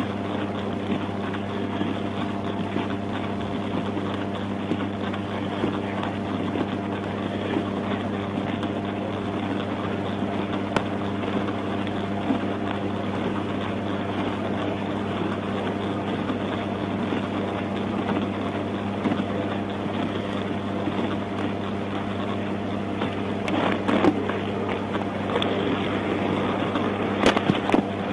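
Vehicle noise: a steady low hum over a constant rush of road noise, with a few brief knocks near the end.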